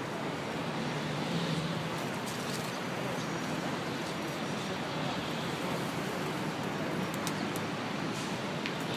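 Steady city traffic noise, an even wash of road sound with a few faint clicks.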